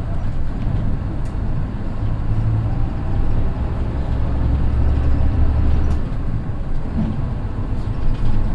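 Mitsubishi Fuso Aero Midi bus with a naturally aspirated 6M61 six-cylinder diesel, running under way. Its deep engine drone changes and drops about six seconds in.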